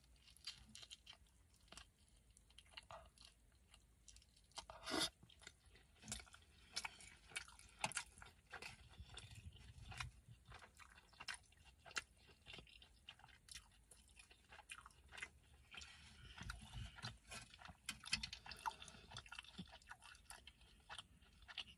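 Quiet, close-up chewing of a mouthful of burrito: many small, wet mouth clicks, with one louder click about five seconds in.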